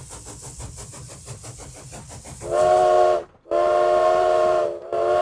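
Steam locomotive chuffing in a quick, even rhythm, then three blasts of its multi-tone steam whistle, the second blast the longest.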